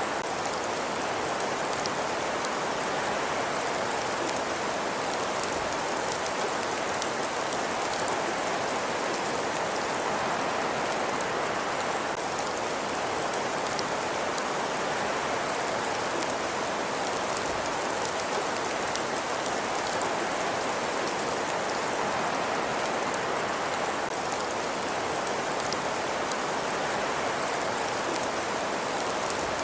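Fireplace ambience: a steady, even hiss sprinkled with fine crackles, unchanging throughout.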